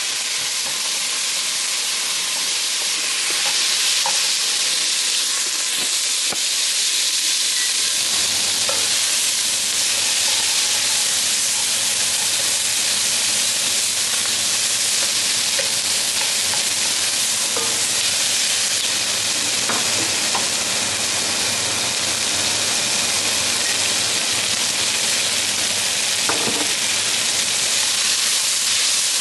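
Onions sizzling as they fry in a pan: a steady hiss with a few light clicks. A low hum comes in about eight seconds in.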